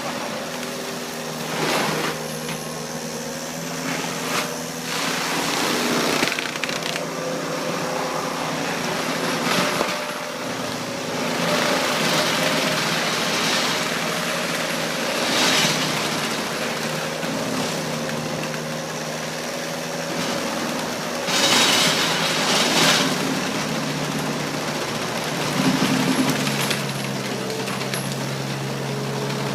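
Skid steer engine running steadily under load while its forestry mulching drum grinds wood, with repeated loud bursts of cracking and breaking as the drum chews into brush and timber.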